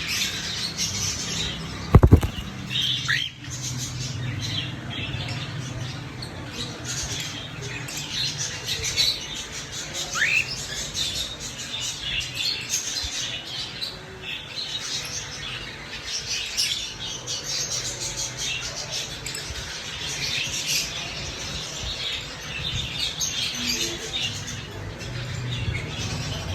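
Cockatiel chirping and chattering continuously, with a couple of short rising whistles. A single sharp knock about two seconds in, and a steady low hum underneath.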